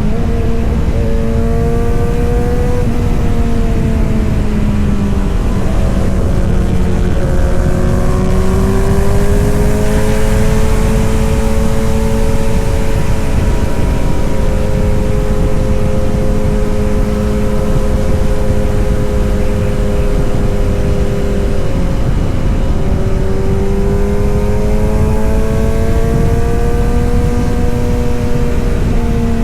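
Kawasaki Z900's inline-four engine and exhaust running under way. The note dips in the first few seconds, climbs and holds steady through the middle, then dips again about 22 seconds in before rising. A steady low rush of noise runs beneath it.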